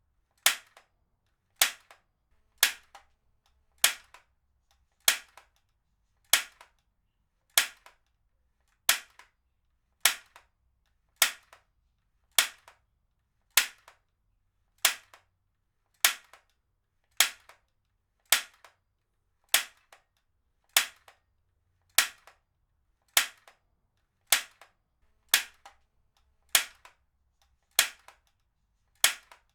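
Heavy-duty stapler firing again and again: a sharp snapping clack about once every 1.2 seconds, each with a short ring-off.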